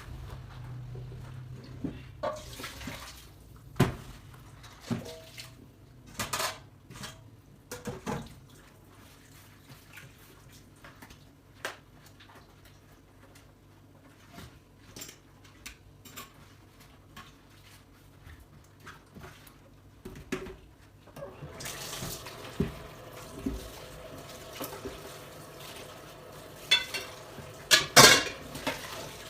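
Dishes and cutlery clinking and knocking as they are handled, in scattered single clinks. About two-thirds of the way in, tap water starts running, with a loud clatter of dishes near the end.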